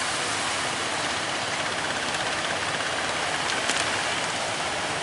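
Steady rushing roar of big surf breaking at a river mouth, swelling a little past the middle.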